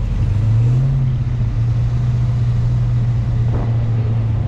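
Car engine running steadily at low speed, with a slight rise in pitch about half a second in.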